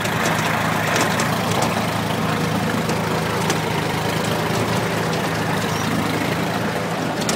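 IMT 539 tractor's diesel engine idling steadily.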